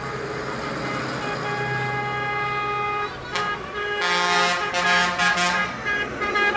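Vehicle horns sounding: one long held horn, a short toot about three seconds in, then several louder horn blasts a second later.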